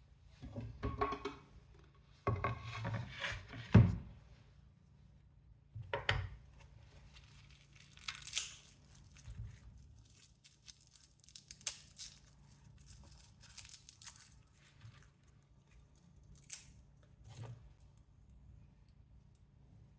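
Household handling sounds: a run of short rustles, crinkles and tearing noises, with a sharp knock about four seconds in.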